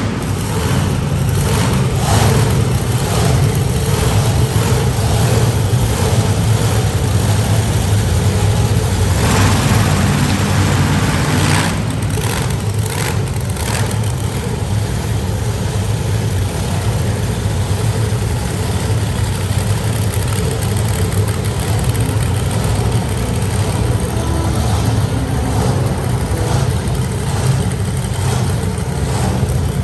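Tiger Shark monster truck's engine running loud and revving on a long-jump run, with a few sharp cracks about nine to thirteen seconds in.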